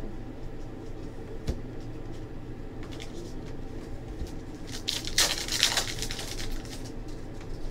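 Trading cards being handled as a stack is flipped through: a single sharp click about a second and a half in, then a brief burst of rustling and sliding card stock about five seconds in, over a steady low room hum.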